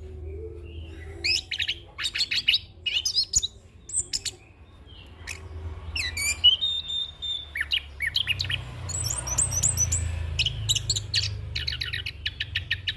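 A chestnut-capped thrush (anis kembang) singing in a run of short, fast trilled phrases and quick whistled glides, broken by brief pauses, with a steady low hum underneath.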